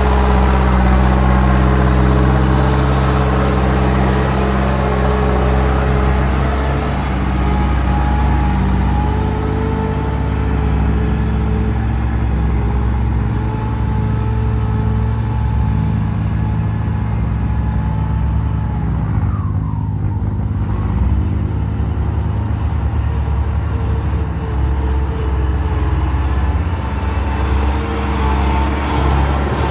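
Diesel engine of a six-wheel dump truck running steadily, with a brief falling whine about twenty seconds in.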